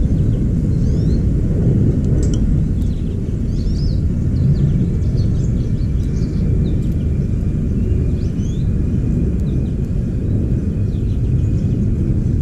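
Small songbirds chirping faintly in short, high notes, scattered throughout, over a loud, steady low rumble.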